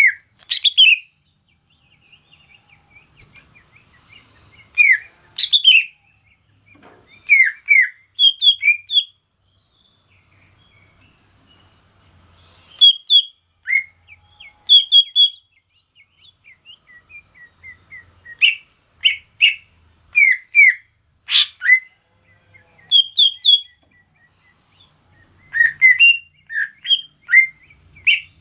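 Greater green leafbird (cucak ijo) singing: loud, short, clear whistled notes in quick clusters of two to five, with pauses of a second or two between clusters.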